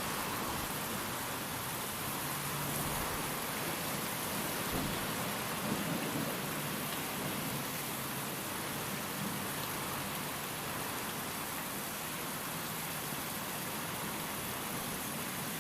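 Steady rain with wind, an even hiss of falling water, with a low rumble of distant thunder swelling briefly near the middle.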